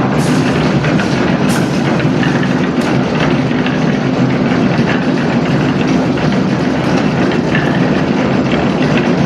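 Engine of site machinery running steadily, with a few sharp knocks in the first three seconds.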